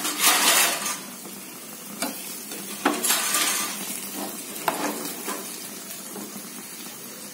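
Masala-coated boiled eggs sizzling in hot oil in a kadhai, with a steel spoon scraping and knocking against the pan several times as the eggs are turned. The loudest scrape comes just at the start.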